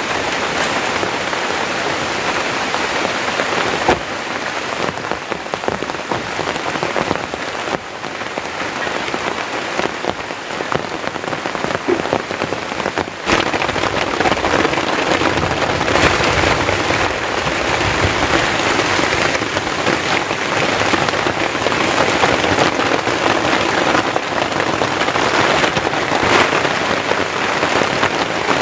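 Heavy rain falling steadily, with a few sharper drop hits standing out now and then.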